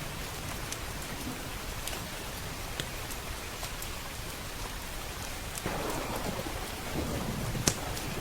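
Steady rain with a low roll of thunder building from just before six seconds in, and scattered sharp pops from a crackling wood fire, the loudest near the end.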